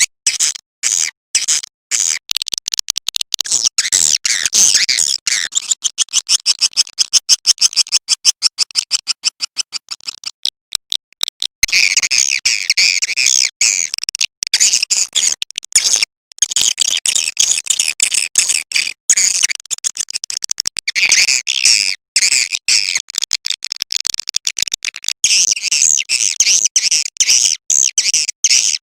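Recorded swiftlet calling sound (suara panggil walet) used to lure swiftlets into a bird house: rapid, high-pitched twittering chirps and clicks in fast trains, growing denser about eleven seconds in.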